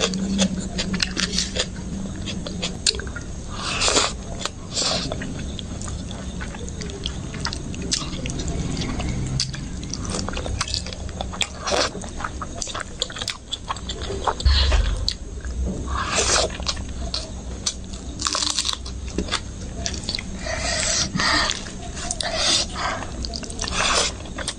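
A person chewing and smacking mouthfuls of yellow rice and egg curry eaten by hand, with many wet mouth clicks, plus the soft squish of fingers mixing rice on the plate. A single low thump about fourteen seconds in.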